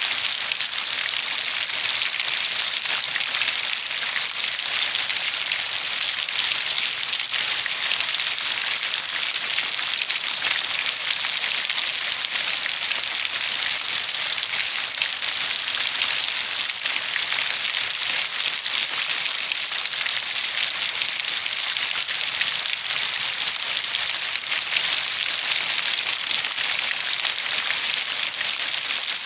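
Steady rain falling and pattering on a surface, an even hiss with many fine drop ticks and no changes in strength.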